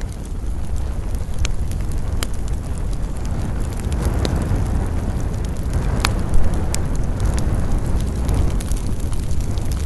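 Wood campfire burning with sharp crackles and pops over a steady low rumble of flames and wind, with two louder snaps about six and seven seconds in.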